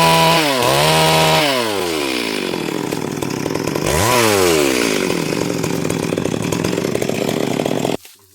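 Stihl MS 382 two-stroke chainsaw revved high, dropping back twice, then revved again and running steadily. The sound cuts off suddenly near the end.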